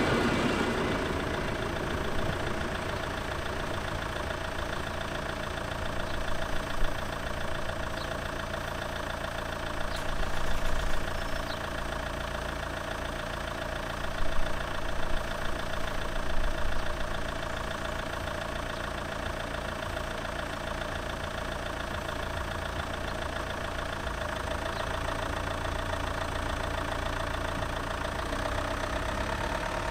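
Motor vehicle engine idling steadily, with a low pulsing throbbing underneath and a few brief louder bumps about a quarter to halfway through.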